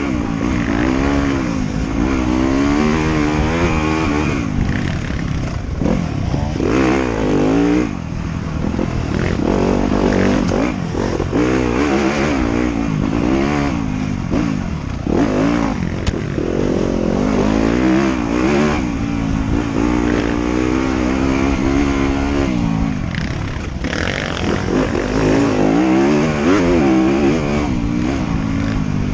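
Motorcycle engine under constant throttle changes while riding a trail. The pitch climbs and drops every second or two as the rider accelerates and backs off.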